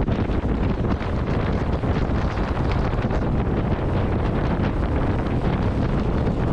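Steady wind buffeting the microphone, with a low rumble underneath.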